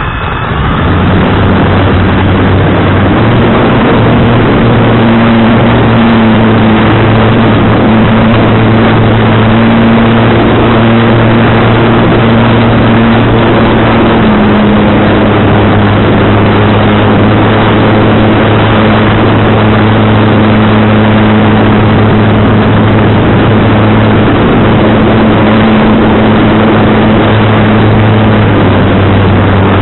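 SWIFT model aircraft in flight: a steady, loud rush of wind noise with a low propeller drone that shifts in pitch a few times as the throttle changes.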